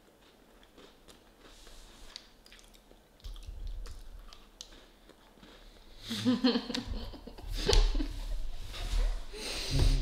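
People chewing crunchy digestive biscuits, faint and clicky at first, then louder crunching about six seconds in, mixed with some laughter.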